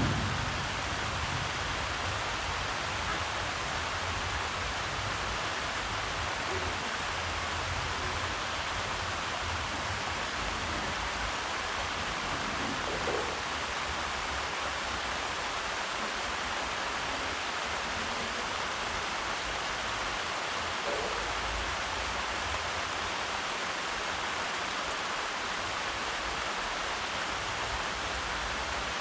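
Steady rain falling, an even hiss with no breaks. A low rumble of thunder dies away over the first few seconds.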